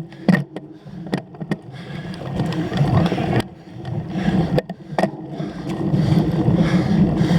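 Cyclocross bike rolling over rough off-road ground: a steady tyre and frame rumble, broken by several sharp knocks and rattles from bumps. The rumble grows louder over the last couple of seconds.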